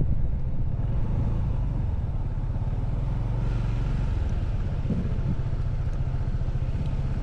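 Motorcycle engine running steadily at an even, low pitch.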